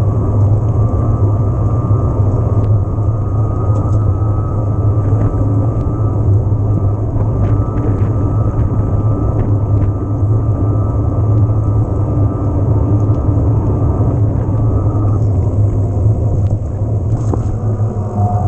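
Steady low wind rumble buffeting the camera microphone, with tyre noise from an electric mountain bike riding along, a few faint clicks, and a faint thin whine that stops about 15 seconds in.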